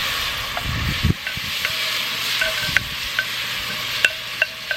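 Carrots, onions and canned beef sizzling in oil in a cast iron Dutch oven, with a metal utensil clinking and scraping against the pot several times, mostly in the second half.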